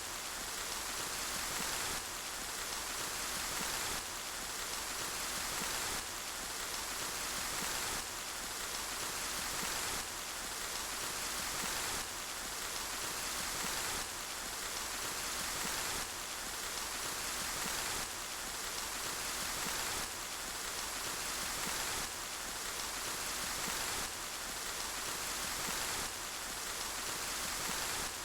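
Steady rain falling, an even hiss of drops strongest in the high range. It swells slightly and drops back every two seconds, a short rain recording looped over and over.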